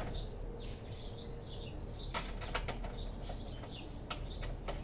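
Small birds chirping repeatedly, with a cluster of sharp clicks about two seconds in and a few more near the end.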